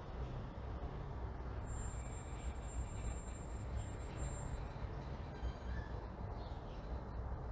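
Neighbourhood morning ambience: a steady low rumble of road traffic, with faint thin high tones coming and going over it.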